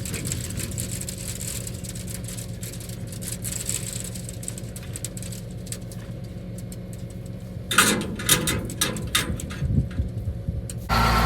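Old farm tractor engine idling steadily while it warms up, with a run of loud knocks and rattles about eight seconds in. Near the end the engine suddenly gets much louder.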